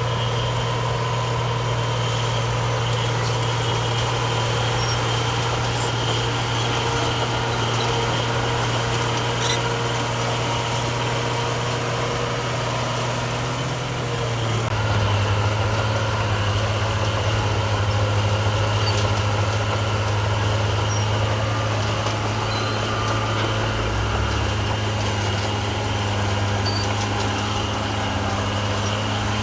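Heavy diesel engine of construction machinery running steadily. About halfway through its note drops slightly and grows a little louder.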